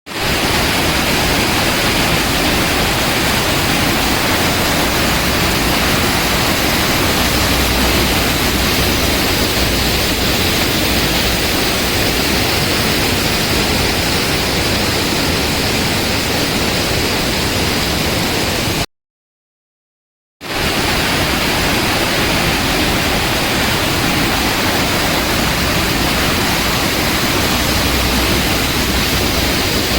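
Steady, loud roar of rushing water, such as a waterfall, that cuts out to silence for about a second and a half about two-thirds of the way through, then resumes unchanged.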